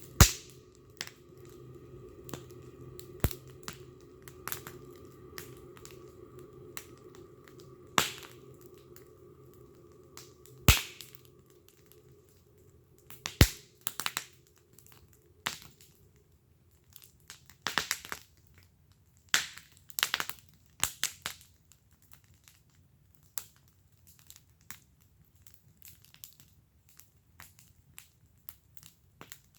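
Wood fire burning in a fire pit, crackling with irregular sharp pops and snaps, a handful of them much louder than the rest.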